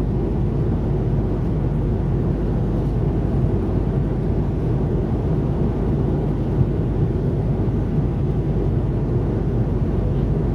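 Steady, low in-flight cabin noise of an Airbus A330-300 airliner: engine and airflow noise heard from inside the passenger cabin, even and unchanging.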